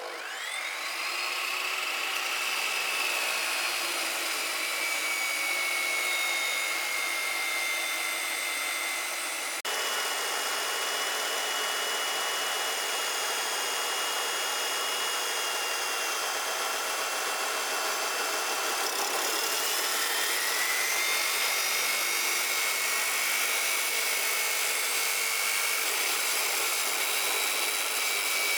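An electric power tool starts up, its motor whine rising quickly, then runs steadily, the pitch sagging and recovering as it works under load. The sound changes abruptly about ten seconds in and the whine carries on at a higher pitch.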